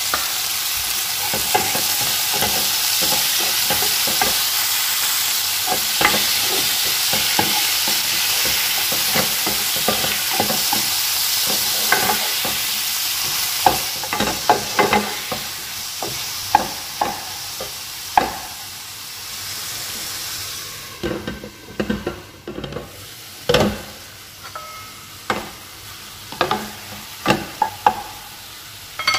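Onions and chopped tomatoes sizzling in a nonstick frying pan while a plastic spatula stirs them, knocking and scraping against the pan. The sizzling dies down about two-thirds of the way through, leaving mostly the spatula's knocks.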